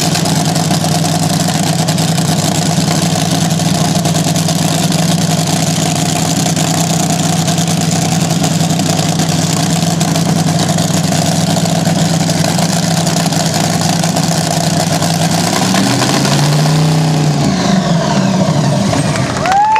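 Vintage slingshot dragster engine running loud and steady, with a brief rise and fall in revs near the end.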